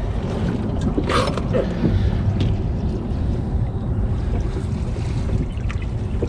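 Steady low rumble of wind on the microphone and water around a small fishing boat, with a few brief knocks, the clearest about a second in.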